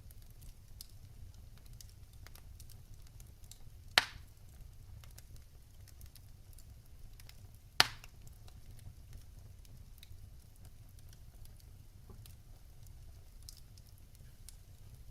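Fireplace fire crackling: many faint ticks over a low rumble, broken by two loud, sharp pops about four seconds apart.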